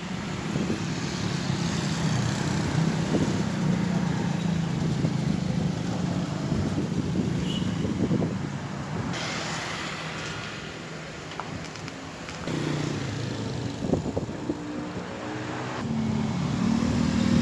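Motor vehicle engine running steadily with a low hum, amid passing road traffic; it eases off a little after the middle, then grows louder again toward the end.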